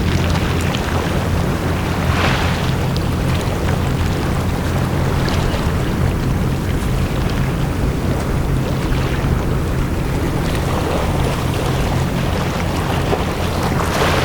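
Small sea waves washing onto a beach, with a brighter wash about two seconds in and another near the end, over a steady low mechanical hum.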